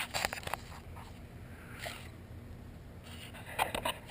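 Light clicks and scrapes of small plastic parts being handled: a cluster of sharp ticks at the start, a soft scrape in the middle, and more ticks near the end.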